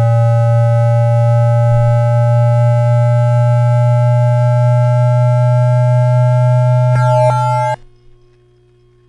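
JR Shikoku 7000 series Hitachi GTO-VVVF inverter noise picked up as interference on an AM radio: loud steady electronic tones slowly rising in pitch over a low hum. Near the end two clicks come, then the tone cuts off suddenly to faint radio hiss as the inverter switches off.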